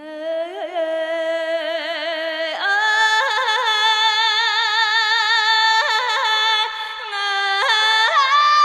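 A solo voice singing a slow melody in long held notes with wide vibrato, stepping up to a higher note about two and a half seconds in.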